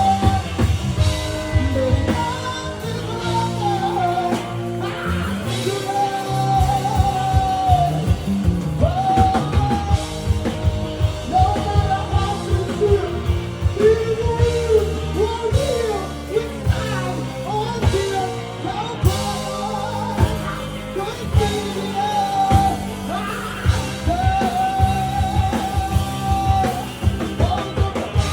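A live rock band playing: drums and guitar under a lead melody line of held, bending notes.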